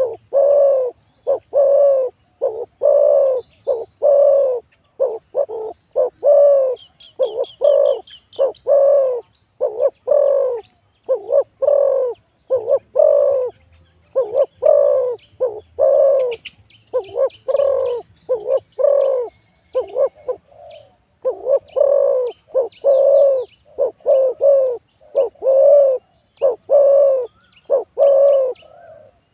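Spotted doves cooing over and over, about one and a half deep coos a second, barely pausing. Small birds chirp faintly above them at times, most thickly around the middle.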